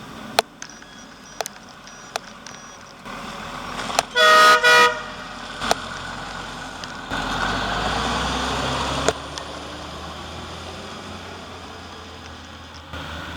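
Horn of a bobbed 5-ton military truck sounded in two short toots. A few sharp clicks come before it, and a few seconds later there is about two seconds of louder rushing noise that ends abruptly with a click.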